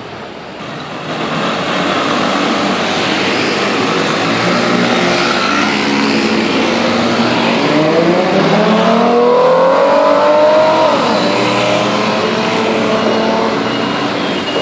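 Ford Mustang convertible's V6 engine and exhaust under way, its note climbing steadily for several seconds, then dropping sharply about eleven seconds in before running on steadily.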